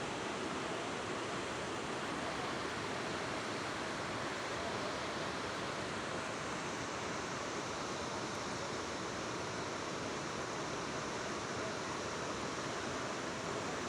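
Steady roar of fast, turbulent floodwater rushing, with no pause or change.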